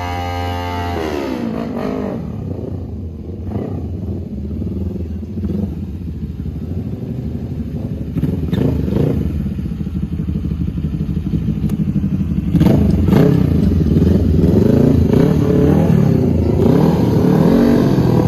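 Mini bike engines running. A steady tone drops in pitch about a second in, then the engines run unevenly and grow louder about twelve seconds in, the pitch rising and falling.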